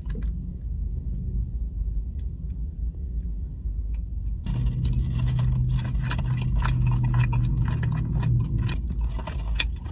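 Close-up chewing and wet mouth sounds of someone eating soft food, over a low steady rumble. The chewing gets busier and louder about halfway through.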